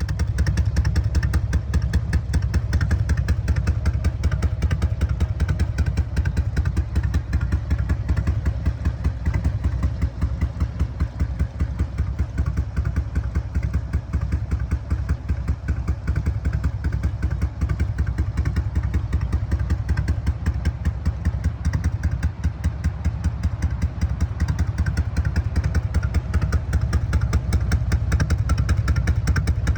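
Harley-Davidson FLHTC's carbureted 1450 cc Twin Cam V-twin engine running steadily, a rapid even pulsing heaviest in the low end.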